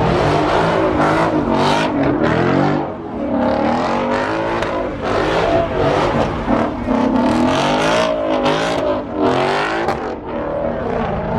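Car engine revving repeatedly, its exhaust note rising and falling over and over.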